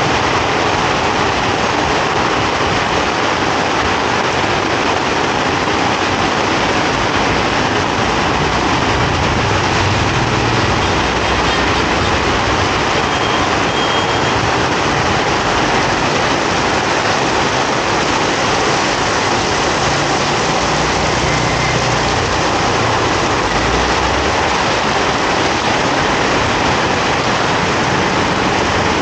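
Heavy tropical rain pouring onto a paved street, a loud, steady hiss. A low rumble of passing motor traffic swells now and then.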